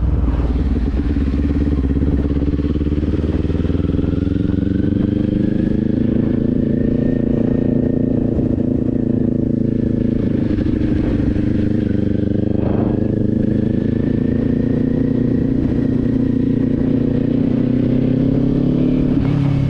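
Kawasaki Z400 motorcycle engine running steadily at cruising speed, its pitch rising slightly and holding, with heavy wind rumble on the microphone.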